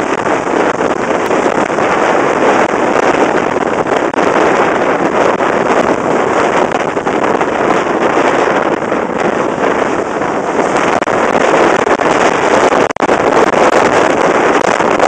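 Wind rushing over a microphone held out of a moving steam train's carriage window, over the train's steady running noise. The noise dips sharply for an instant about thirteen seconds in.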